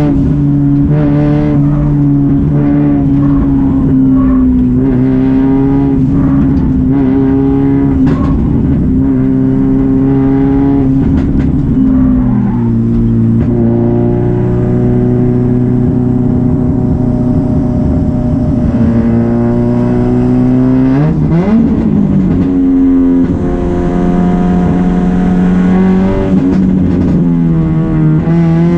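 Hyundai Genesis Coupe drift car's engine heard from inside the cabin, held at high revs on a hard warm-up run. The pitch holds steady for long stretches and steps down and back up a few times, with a sharp dip and climb about three-quarters of the way through.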